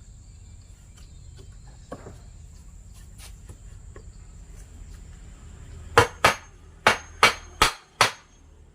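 Hammer striking wood in the workshop: a few faint taps, then six sharp blows in quick succession near the end, as when driving nails into a wooden panel.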